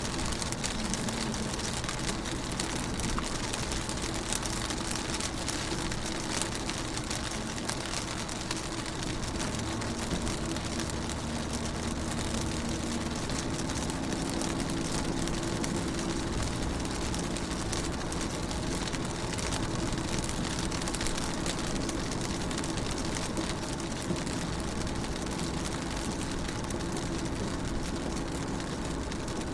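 Rain falling on a car's windows, a steady hiss of many small drop impacts, with a faint low hum underneath that grows a little stronger about halfway through.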